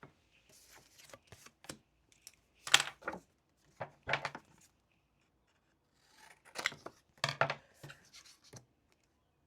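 Short bursts of rubbing and scraping from things being handled at a desk, close to the microphone. They come in two clusters, a little under three to about four and a half seconds in and again from about six to eight and a half seconds in.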